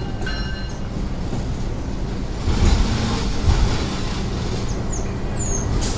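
Freight train rolling slowly past at close range: a diesel locomotive's engine rumbling under the wheels of a cargo van on the rails, with two heavier knocks from the wheels about two and a half and three and a half seconds in.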